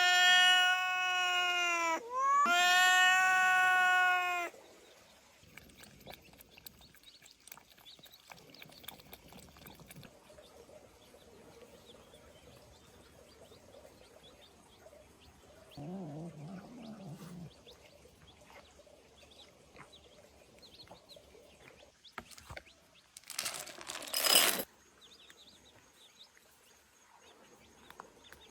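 Domestic cat meowing: two long, loud meows back to back, each rising at the onset and then holding steady. Much later comes a brief, loud, noisy burst.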